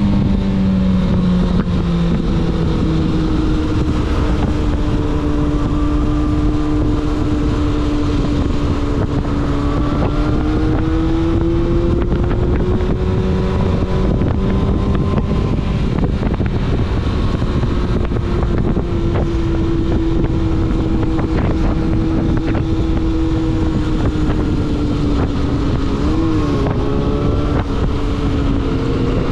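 Yamaha Fazer 600's inline-four engine running at steady cruising revs on the road, its pitch drifting gently up and down, with a quick dip and rise in revs near the end. Wind noise on the microphone and road rumble run underneath.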